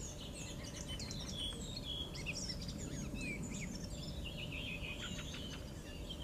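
Several small birds chirping and singing, with short quick notes and trills overlapping throughout, over a steady low background noise.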